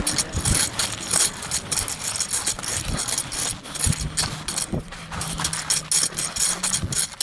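Repeated gritty scraping and rasping of a tool spreading sand and gravel over the ground. A low engine hum joins about five seconds in and fades just before the end.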